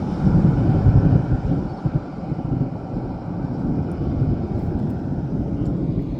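Rolling thunder: a long, low rumble that slowly fades away.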